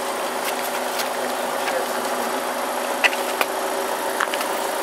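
A vehicle engine running steadily, with a few sharp clicks about three and four seconds in.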